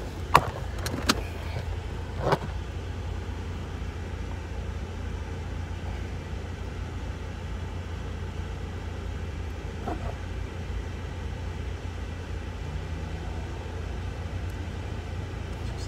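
Car engine idling, heard from inside the cabin as a steady low rumble, with a few short knocks in the first couple of seconds.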